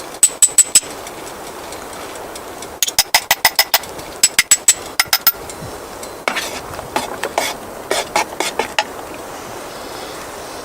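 Metal striking metal: quick runs of sharp, ringing taps, three to six at a time, then softer, duller knocks and scraping from about six seconds in.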